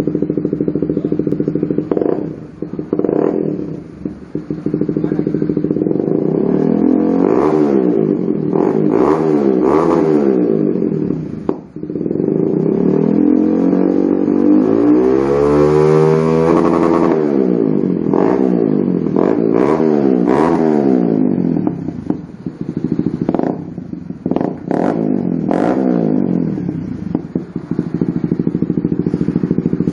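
Honda CBR150R (K45G) single-cylinder engine through an aftermarket Akrapovic GP-style slip-on exhaust, idling and revved in quick throttle blips. There is one longer rev about halfway through, then more short blips before it settles back to idle.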